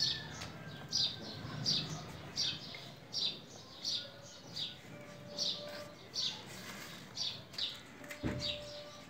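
A small bird chirping over and over, each a short, high, falling chirp repeating about every half-second to second, with a single soft knock about eight seconds in.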